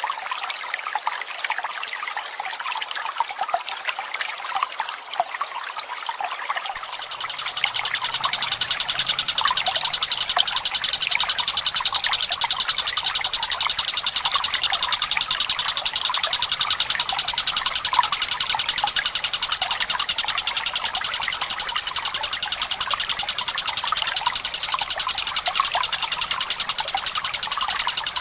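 Trickling water, then about seven seconds in a Tengkek Buto (a kingfisher) starts a long, very fast rolling trill that holds steady over the water to the end.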